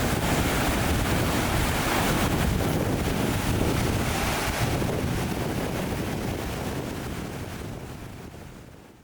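Sea waves breaking on the shore with wind buffeting the microphone, a steady rushing noise that fades away over the last few seconds.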